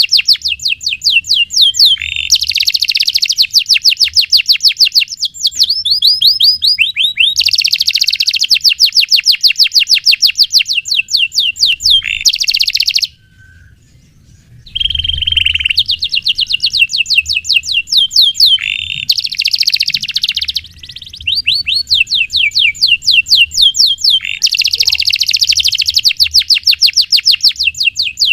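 Domestic canary singing a long, loud song of fast rolling trills and rapidly repeated chirping notes. The song breaks off for about two seconds about halfway through, then resumes.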